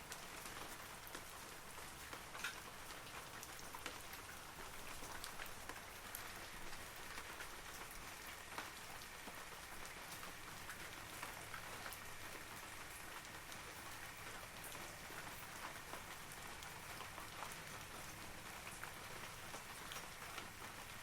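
Steady rain falling on forest trees: a soft even patter with many distinct drops ticking close by.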